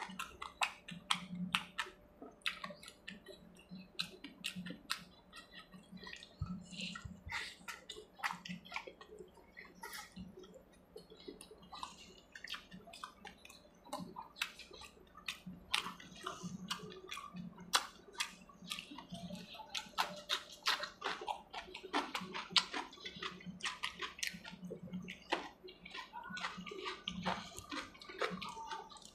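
A person eating fish curry with his hands, chewing with wet mouth sounds and lip smacks. There are irregular sharp clicks and squelches throughout.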